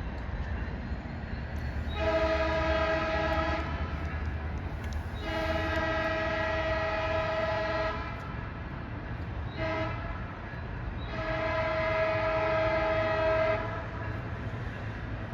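Locomotive air horn sounding the grade-crossing signal: two long blasts, a short one and a final long one, over the steady low rumble of the train.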